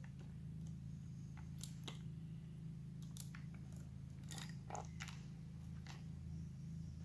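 Scattered light clicks, taps and crinkles of hands handling chainsaw parts and packaging, a few sharper knocks about four to five seconds in, over a steady low hum.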